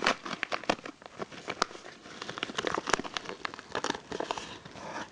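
Crinkly package wrapping crackling and rustling as it is handled and pulled open by hand, a rapid irregular run of sharp crackles.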